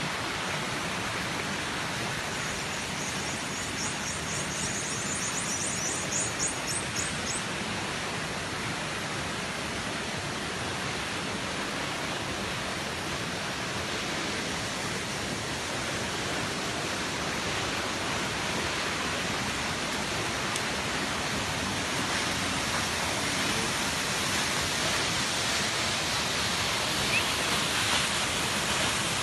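Waterfall rushing steadily, a constant even roar of falling water. A few seconds in, a rapid high chirping, about four or five chirps a second, sounds over it for about four seconds.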